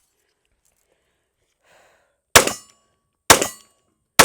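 Taurus GX2 9mm pistol firing three shots about a second apart, starting a little past two seconds in, the last one right at the end.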